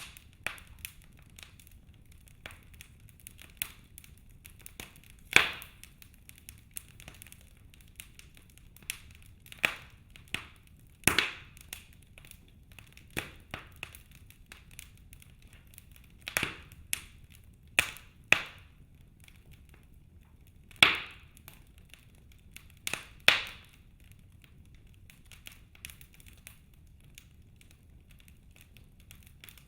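Wood logs burning in a fireplace, crackling with sharp irregular pops: small ticks most of the time and a handful of loud cracks a few seconds apart, over a faint low rumble of the fire.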